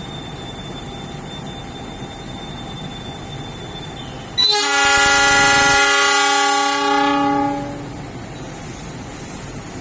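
Train horn sounding one long blast of about three and a half seconds, starting about four and a half seconds in, over a steady station rumble. Before the horn, a faint high steady whine.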